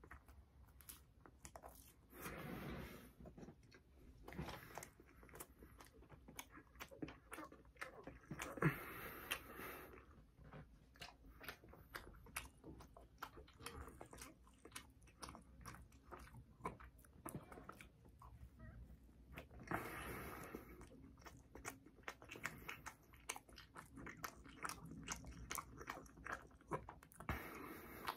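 Close-up chewing of a chocolate-glazed eclair: wet mouth clicks and lip smacks, many short clicks throughout, with a few longer, louder stretches of chewing.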